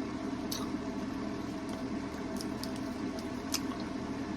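Someone chewing a chewy ginger apple candy, with a few short wet mouth clicks over a steady low room hum.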